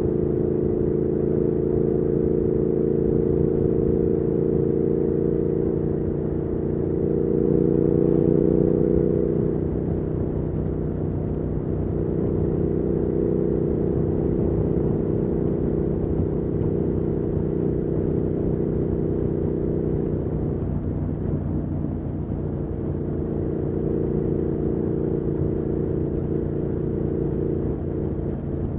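2019 Triumph Speed Twin 1200's 1200 cc parallel-twin engine through a Weslake Shorty Pro exhaust, running under way. The revs climb and it grows louder about seven to nine seconds in, then it settles to a steady cruise.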